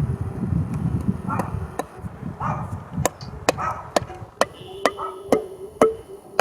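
Mallet driving a copper spile into a tap hole in a sugar maple. Low handling noise comes first, then from about halfway through a run of sharp strikes, about two a second, each with a short ringing note.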